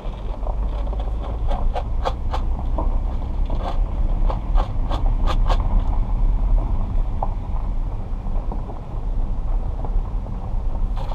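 Steady low rumble heard from inside a slowly moving car, with a quick run of sharp clicks and taps in the first half.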